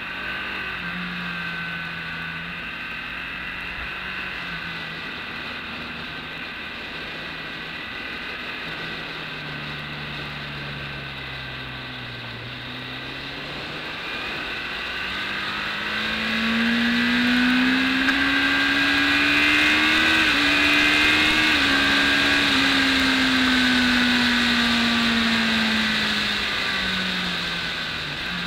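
BMW K1200S inline-four engine heard from a camera on the bike during a track lap. The engine note shifts in steps through the first half, dips, then climbs in pitch and gets louder from about halfway, and falls back down near the end.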